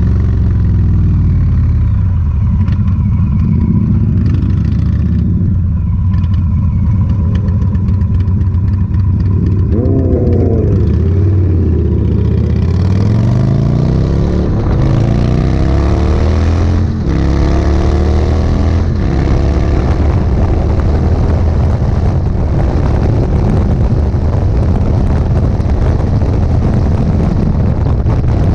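Motorcycle V-twin engine, the Indian Sport Chief's Thunderstroke 116, running low and steady, then accelerating in several rising sweeps of revs, with a brief dip about two-thirds through as it changes gear. Wind rush on the microphone builds as speed picks up.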